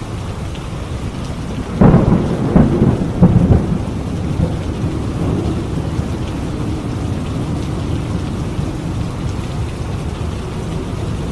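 Steady heavy rain with a thunderclap: a sharp crackling crash about two seconds in, a few more loud cracks over the next two seconds, then a low rumble fading back under the rain.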